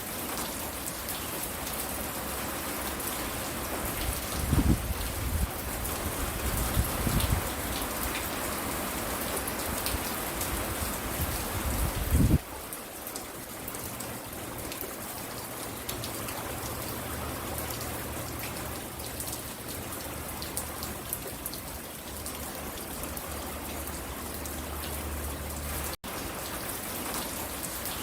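Steady rain falling. A few low rumbles come through between about four and twelve seconds in, the last one just before the middle the loudest, and there is a momentary dropout in the sound near the end.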